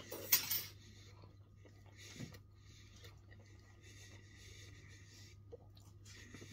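Quiet mouth sounds of a man chewing a mouthful of burger, with a brief loud hiss just after the start. A low steady hum runs underneath.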